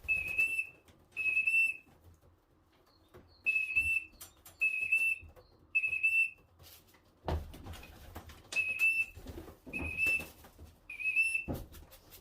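A pigeon fancier's whistle call: eight short whistle notes in three groups of two or three, calling young pigeons in to trap into the loft. A couple of dull knocks fall between the later notes.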